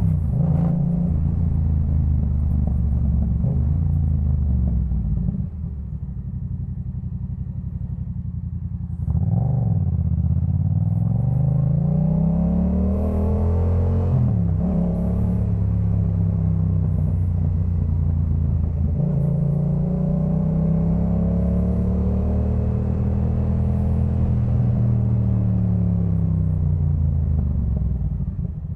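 Yamaha MT-07's parallel-twin engine breathing through a Jeskap K4 full exhaust while riding, its pitch rising and falling with throttle and gear changes. It goes quieter on a closed throttle about six seconds in, then picks up with quick revs and several long pulls through the gears.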